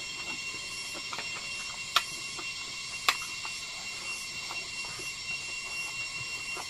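Eating sounds: a man chewing a mouthful of rice and bamboo shoots, with small mouth clicks and two sharp smacks about two and three seconds in. Beneath it runs a steady high-pitched whine.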